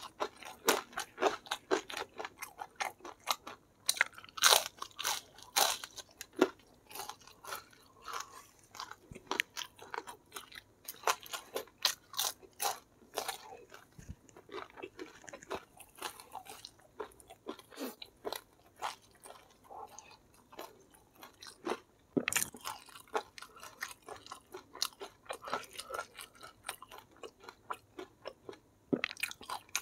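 Chewing and crunching of fried chicken in spicy sauce, with irregular crunches throughout and louder bites now and then.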